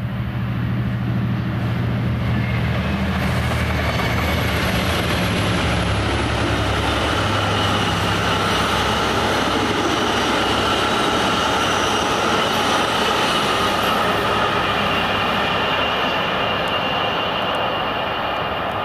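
A train passing close by: a diesel locomotive's engine hum for the first several seconds, then the steady rush of wheels on the rails with a faint high squeal, easing off near the end.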